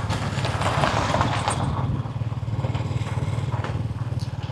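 A small engine running steadily with a fast, even beat, and some light clatter over it.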